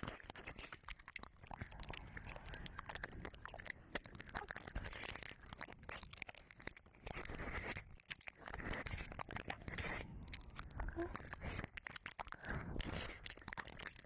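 Ear licking and wet mouth sounds close on a 3Dio binaural microphone's ear: an unbroken, irregular run of clicks and smacks, briefly easing about eight seconds in.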